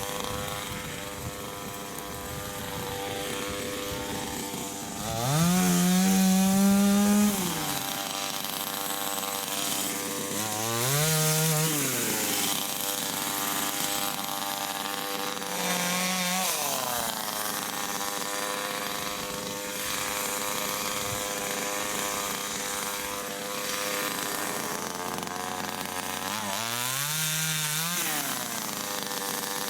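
Chainsaw engine idling, revved up four times to full speed and dropping back to idle between, each burst lasting one to two seconds. The first burst, about five seconds in, is the longest and loudest.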